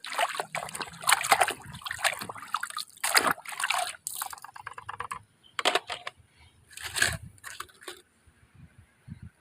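Water sloshing and splashing in irregular bursts, with trickling in between, as muddy toy vehicles are washed by hand in water.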